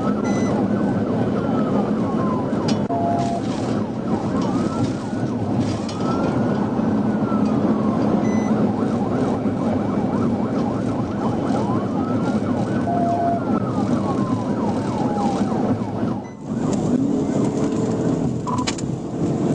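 Police car siren in a slow wail, its pitch rising and then falling over and over every few seconds, over heavy road and wind noise from the moving patrol car. The sound drops out briefly about sixteen seconds in.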